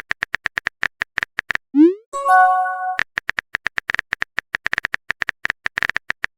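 Phone texting sound effects: fast, even keyboard-typing clicks, then about two seconds in a short rising 'bloop' and a brief held chime-like tone as a message pops up, then more rapid typing clicks.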